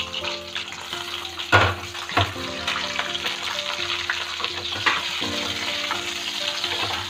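Whole chicken shallow-frying in a little oil, sizzling steadily, as it is turned over with two metal spoons. A few knocks and scrapes of the spoons against the pan.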